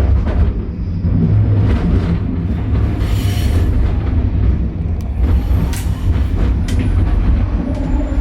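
Train in motion: a steady heavy low rumble with scattered clicks and rattles.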